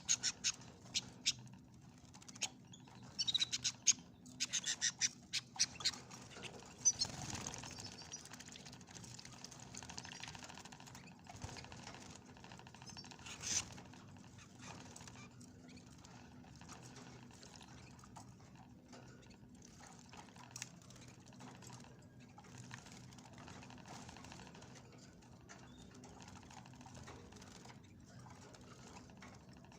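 Small cage birds, canaries and goldfinches, bathing: quick bursts of wing-fluttering and splashing in the water, thick in the first six or seven seconds and then only now and then. A faint steady hum runs underneath.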